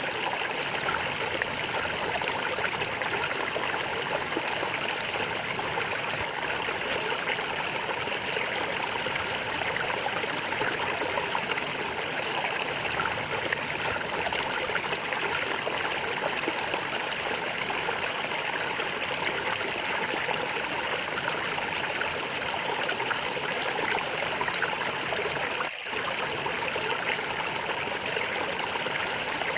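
A stream of water flowing and gurgling steadily, with a momentary dip in level near the end.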